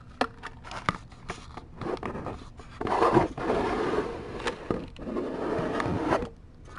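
Kittens moving about, with scratching and rustling and scattered small clicks; the scraping grows louder for a few seconds in the middle.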